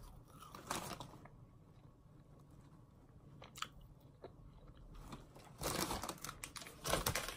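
A person chewing McDonald's French fries, with a few soft mouth clicks. Near the end comes a cluster of crackling from the paper takeaway bag being rummaged.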